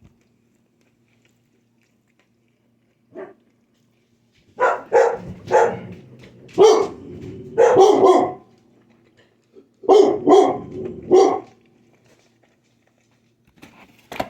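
Pet dog barking, about eight loud barks in two runs between roughly four and eleven seconds in.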